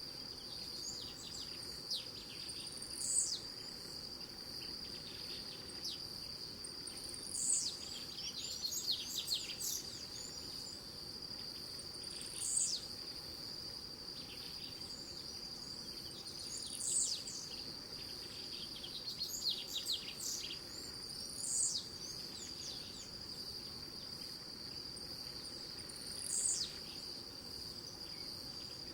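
A small songbird singing short, high phrases that sweep downward, repeated every four to five seconds, over a steady high-pitched insect drone.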